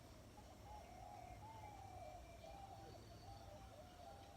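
Faint, distant birds calling, heard as a soft, continuous warbling that wavers up and down in pitch.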